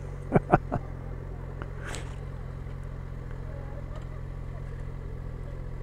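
Motorcycle engine idling steadily, with no revving, and a brief hiss about two seconds in.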